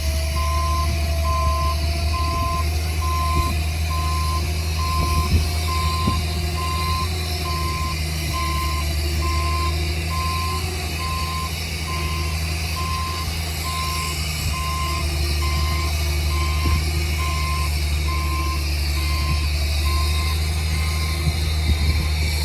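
Reversing alarm on a heavy earthmoving machine beeping at an even pace, over the steady low drone of its diesel engine.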